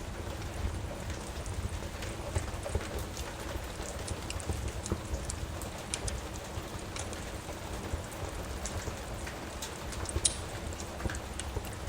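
Steady rain with a low rumble, and sharp pops and crackles from a wood fire in a fireplace scattered through it, the loudest pop about ten seconds in.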